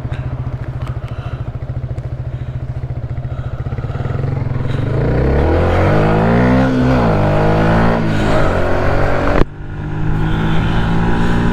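Yamaha 125cc single-cylinder motorcycle engine pulling away: it runs at steady low revs, then the revs climb and fall back. Near the end the sound drops out for a moment, then it runs steadily again.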